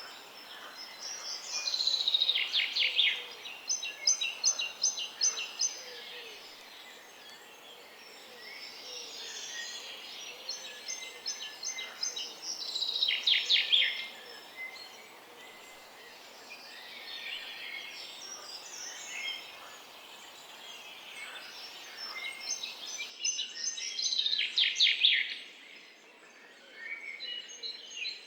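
Woodland songbirds singing over faint background noise. One bird repeats a loud song phrase of rapid notes falling in pitch three times, about eleven seconds apart, with other birds chirping in between.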